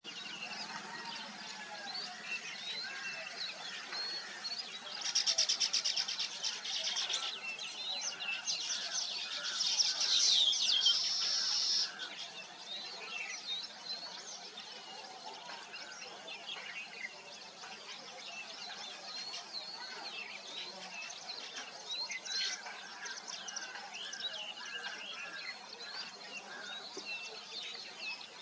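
A weaver bird colony chirping and chattering, with many birds calling at once. Two louder stretches of rapid chatter come about five seconds in and again from about ten to twelve seconds.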